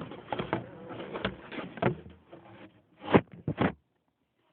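Dry dog food and its containers being handled: rapid rattling and clicking for about two seconds, then two sharper knocks about three seconds in.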